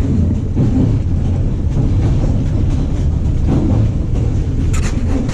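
Passenger train running along the track: a loud, steady low rumble.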